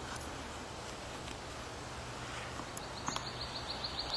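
Steady outdoor hiss with a few light clicks. About three seconds in, a bird starts a rapid trill of short high chirps, about ten a second.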